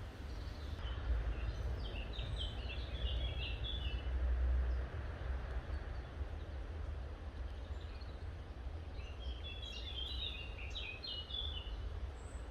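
A songbird singing two short phrases of quick, high chirping notes, one about two seconds in and one near the end, over a steady low rumble.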